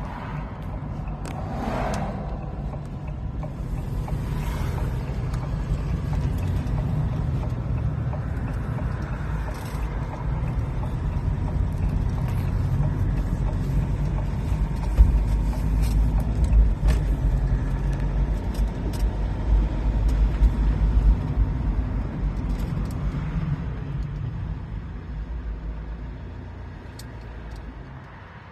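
Steady low rumble of a 2019 Iveco Daily van running, with scattered small clicks and rattles. It dies away over the last few seconds.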